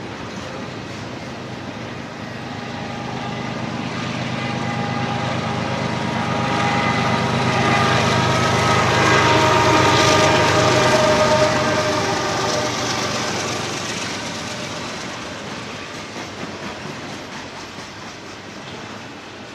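A mid-train EMD SD70AH diesel-electric locomotive rolls by in a double-stack container train, with a steady rumble and wheel clatter from the well cars. The sound builds to its loudest about halfway through, where a set of steady whining tones rides over the rumble, and then fades as the locomotive goes on past.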